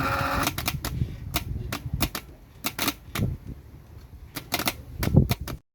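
A quick, irregular run of sharp clicks and knocks, about a dozen, over a low rumble, cutting off abruptly near the end.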